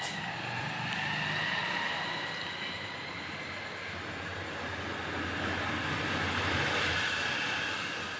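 A person drinking the fermented rice water of basi pakhala, a continuous noisy drinking sound that swells twice, once early and once near the end.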